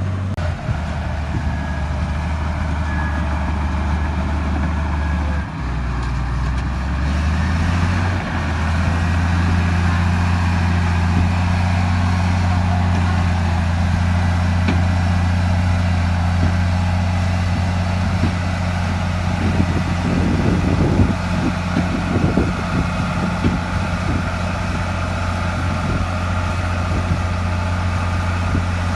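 Heavy diesel engine of a bulldozer running steadily, its engine note shifting a few times in the first eight seconds as the load changes. Scattered short knocks and clatter are mixed in over a few seconds in the middle.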